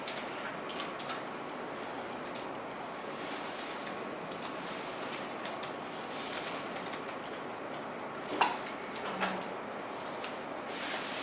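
Scattered clicks and taps of computer keyboards and mice over a steady room hiss, with one louder click about eight seconds in.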